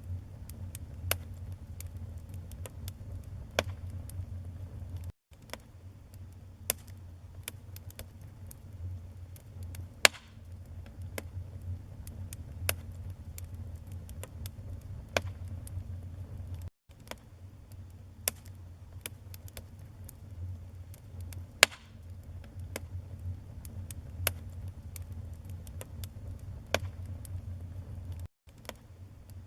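Wood fire crackling, with sharp pops at irregular intervals over a steady low rumble of flames. The sound drops out for a split second three times.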